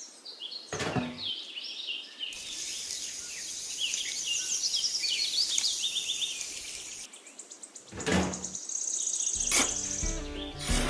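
Small birds chirping, with quick high chirps and a fast trill in the middle over a light hiss. A short sudden sound comes about a second in and again near 8 seconds, and music starts near the end.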